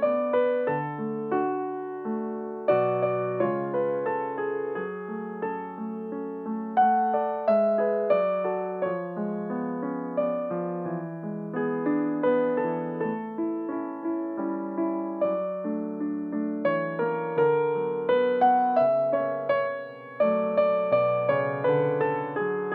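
Piano postlude: chords and a moving melody, each note struck and then fading, with a brief break about twenty seconds in.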